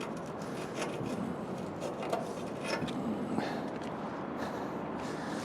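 Steady outdoor background noise with a few light clicks and scrapes of scrap-metal finds being handled.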